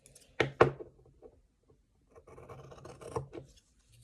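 Handling noise at a workbench: two sharp clicks about half a second in, then a couple of seconds of rubbing with one more knock near the end.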